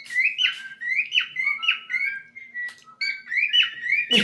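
Male cockatiel singing: a quick, unbroken string of short whistled notes, several a second, many of them sliding up or down in pitch.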